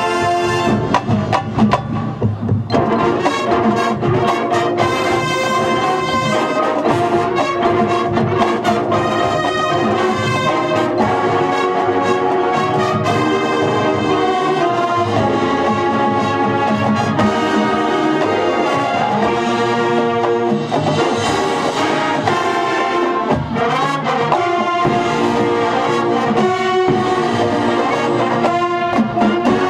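High school marching band playing its halftime show, brass instruments carrying the melody in sustained chords, with sharp percussion hits in the first few seconds.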